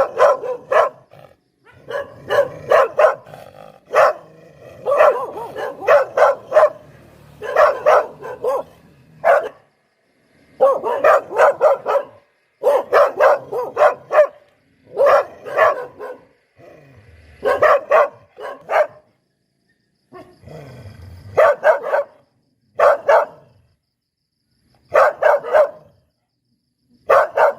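Poodle barking in quick runs of two to four sharp barks, with short pauses between the runs.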